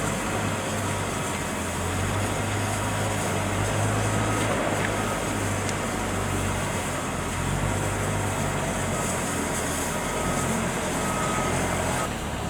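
A steady low engine hum, with short faint high beeps repeating in the second half.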